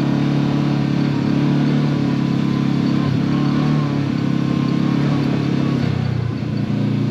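Side-by-side UTV engine running steadily under way, easing off briefly about six seconds in, then picking up again.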